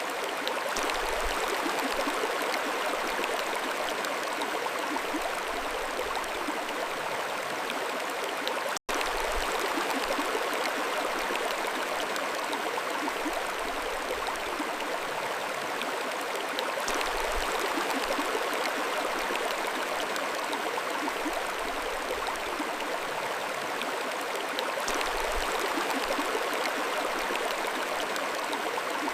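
Mountain stream flowing steadily, an even rush of water over stones, broken once by a split-second dropout about nine seconds in.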